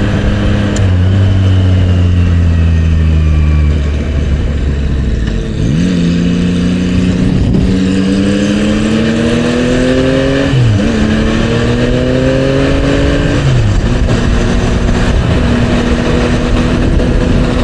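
Motorcycle engine pulling hard up an expressway on-ramp. The pitch climbs and drops suddenly at each upshift, about three times, then holds steady at cruising speed, with wind rushing past.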